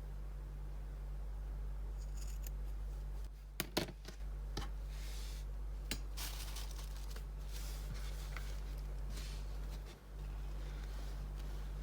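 Scissors cutting felt: a few sharp clicks about four seconds in, then a run of snips. A steady low electrical hum runs underneath.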